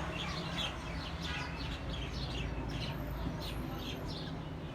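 Birds chirping: many short, quick, falling calls repeating over and over, over a steady low rumble.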